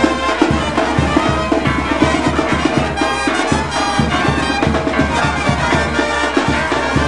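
Mexican brass band (banda de viento) playing lively music live: brass instruments carrying the melody over a steady beat of drums.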